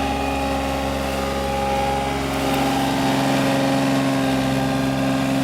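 The Yanmar 3TNE84 three-cylinder diesel of a John Deere 3235B fairway mower running steadily, a little louder from about two and a half seconds in.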